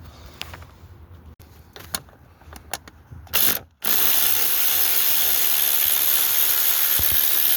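A few scattered tool clicks and knocks, then from about four seconds in a cordless power tool motor runs loud and steady, spinning out bolts on a Mercedes V6 diesel's oil cooler.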